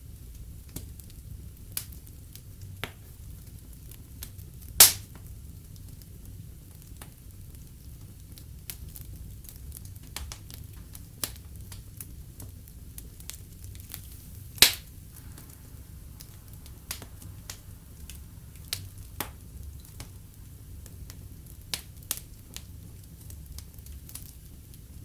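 Fire in a fireplace crackling, with a steady low rumble of flames and scattered small crackles. Two loud sharp pops stand out, about five seconds in and again about fifteen seconds in.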